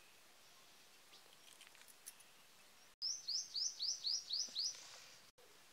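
A bird singing a quick run of about seven high, rising notes, roughly four a second, starting abruptly about halfway through, over faint outdoor ambience.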